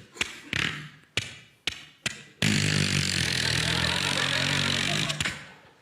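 Sound effects made with the mouth: a string of sharp clicks and pops, then about two and a half seconds in a loud, steady engine-like drone that fades out near the end.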